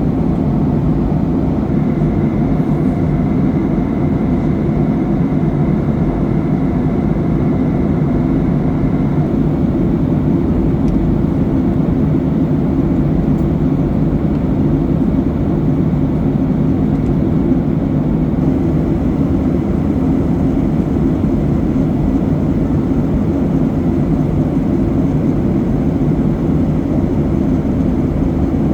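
Steady cabin noise of a Boeing 737-800 in cruise: the even roar of its CFM56-7B turbofans and the rushing airflow, heard inside the cabin. A faint thin high tone sits over it for the first several seconds.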